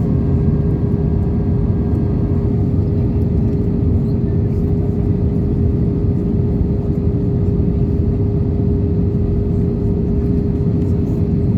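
Steady cabin roar of an Airbus A320-214 with CFM56 engines, engine noise and airflow heard from inside the cabin, with a constant hum.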